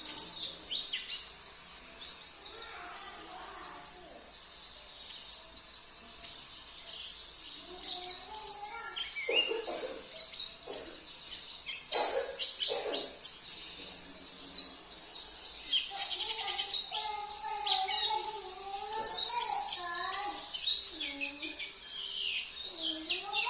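Oriental white-eye (pleci) song: rapid, high-pitched twittering that runs on without a break. Lower, warbling whistled phrases from another songbird join about eight seconds in and again after about sixteen seconds.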